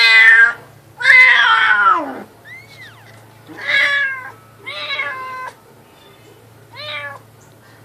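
Cat in labour yowling: two long, loud, drawn-out yowls in the first two seconds, then three shorter, quieter meows.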